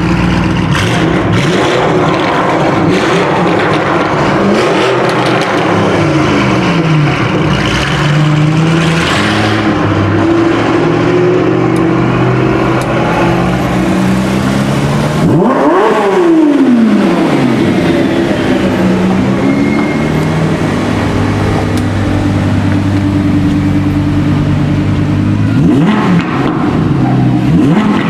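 Supercar engines accelerating one after another, pitch climbing and stepping as they shift through the gears. About halfway through, one engine revs hard, its pitch rising sharply and then falling away.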